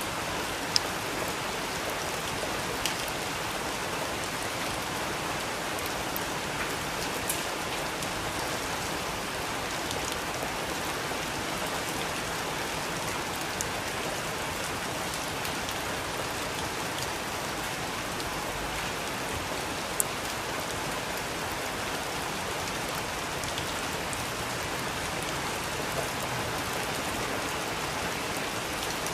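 Steady rain falling, an even hiss with a few single sharp drops ticking out now and then.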